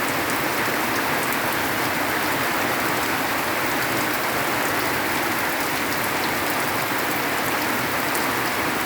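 Heavy rain pouring down in a steady, dense hiss, with fine patter of drops hitting surfaces.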